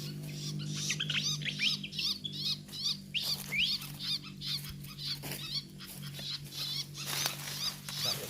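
Pied fantail chattering: a rapid series of short, sharp chirps, several a second, over a steady low hum.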